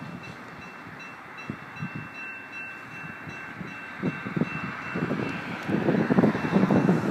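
Level-crossing warning signal sounding a steady high tone while an approaching light-rail train's low rumble builds, growing clearly louder over the last two seconds.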